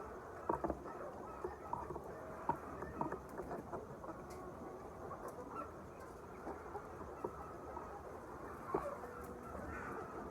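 A flock of chickens clucking: a steady din of many overlapping calls, with a few louder single calls standing out now and then.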